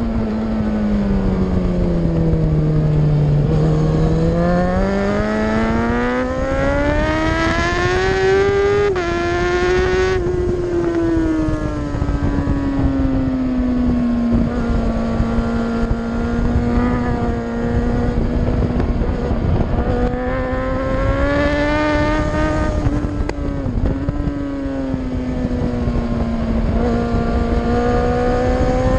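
Superbike engine at racing speed on a track: revs fall for a few seconds, climb through the gears with a sharp drop at an upshift about nine seconds in, then hold fairly steady with smaller rises and dips. A steady rush of wind runs under it.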